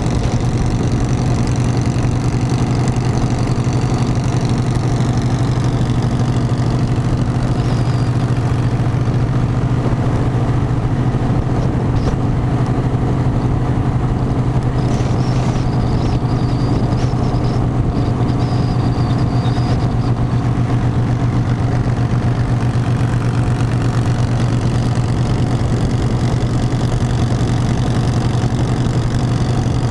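Harley-Davidson motorcycle's V-twin engine running steadily at an even pitch and level.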